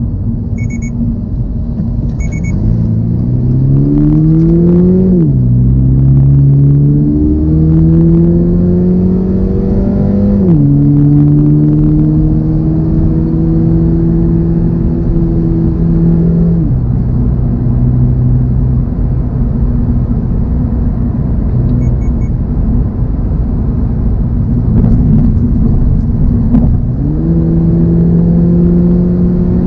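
2024 Toyota GR86's 2.4-litre flat-four engine accelerating through two gears, its note climbing and dropping at each upshift, then holding steady at cruise over road and tyre rumble. About halfway through the engine note falls away, and it climbs again briefly near the end. Faint short electronic beeps sound twice near the start.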